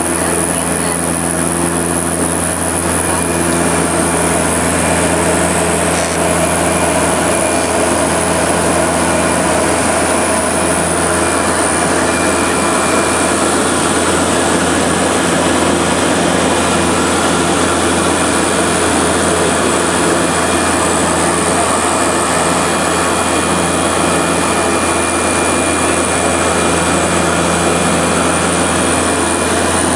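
Seaplane's propeller engines and propellers droning steadily, heard inside the cabin during the landing approach: a constant low hum with steady engine tones over a wash of airflow noise.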